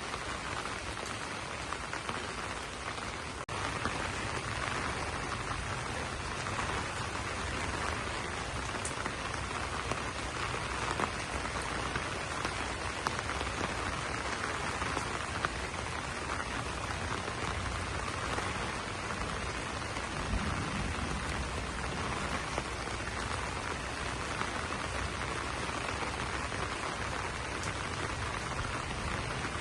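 Steady rain pattering on banana leaves, with a few louder single drops standing out.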